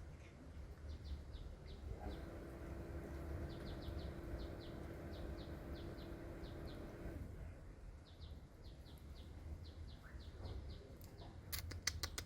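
Small bird chirping faintly over and over, short chirps several a second in runs, over a low background rumble. A steady hum comes in about two seconds in and stops about five seconds later, and a quick run of sharp clicks comes near the end.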